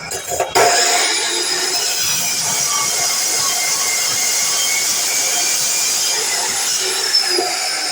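DeWalt miter saw starting about half a second in, its motor whining at a steady high pitch through the cut, then winding down near the end.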